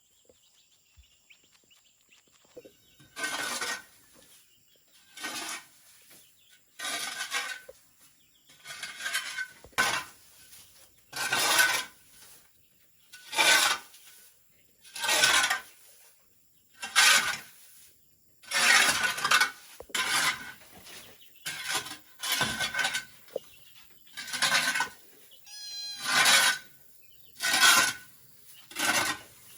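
Slow, regular rasping strokes of a hand tool working bamboo, about one every one and a half to two seconds, starting about three seconds in.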